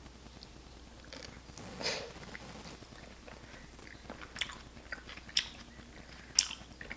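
Close-miked eating sounds: chewing and biting of breakfast food, with a few short sharp mouth or utensil clicks spread through.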